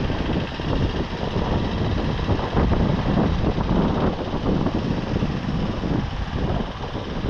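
Riding noise from a moving motorbike: wind buffeting the microphone over the engine and road sound, loud and unsteady throughout.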